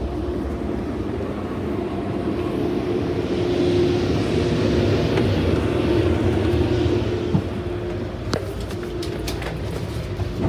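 Metrolink commuter train pulling into a station, heard from inside the passenger car: a steady rumble with a low hum. A hiss swells in the middle, and a knock and a few sharp clicks come in the second half.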